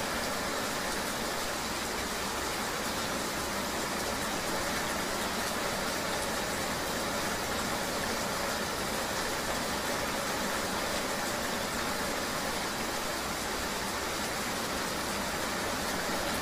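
Steady rain mixed with the continuous running and road noise of a motorbike ride, heard as an even, unbroken hiss.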